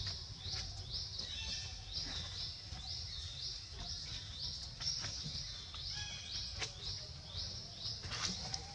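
A bird's high chirping call repeated steadily, about two chirps a second, over a low rumble.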